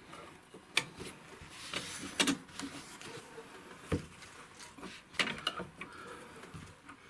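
Scattered knocks and clicks of tools and metal parts being handled while the wheelchair's rear wheel is worked on and lifted, with a few sharper knocks spread through.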